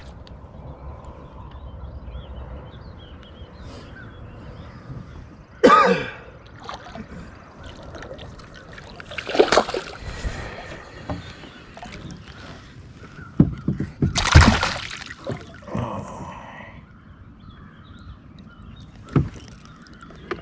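Knocks, clicks and rustling as a caught bass is handled in a small fishing boat. There is a brief pitched vocal sound about six seconds in, and louder noisy bursts near ten and fourteen seconds, the second being the loudest.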